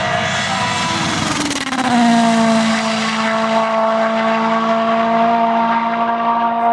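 Rally car engine running hard at high revs. Its pitch drops about two seconds in, then holds at a steady high note.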